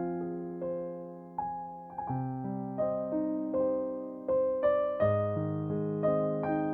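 Slow, gentle solo piano music: single notes picked out over held bass notes, each note fading after it is struck.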